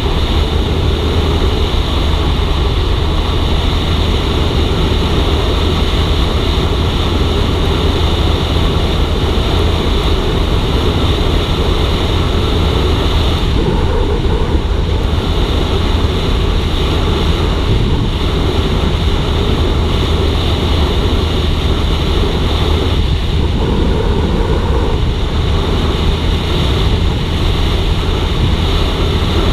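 Suzuki GSX-R150 motorcycle riding along at steady speed: the single-cylinder engine running under a continuous rush of wind noise on the microphone, shifting slightly twice.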